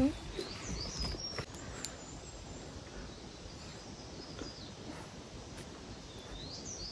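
Quiet forest ambience with a bird's short, high, whistled calls rising and falling in pitch, heard about a second in, faintly mid-way and again near the end.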